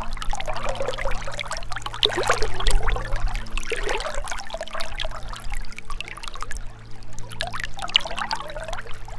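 Gentle river water flowing, its splashing swelling and fading unevenly.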